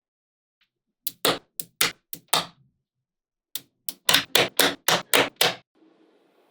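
Small magnetic balls snapping together one after another as they are built into a model: a run of sharp clicks about a second in, then a quicker, louder string of clicks a few seconds later.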